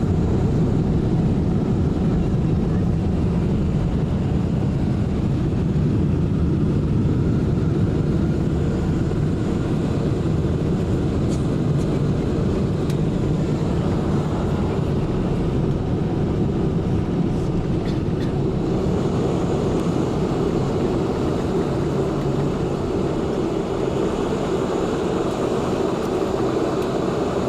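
Steady rumble of a Boeing 747 heard inside the passenger cabin: engine and airflow noise, even in level.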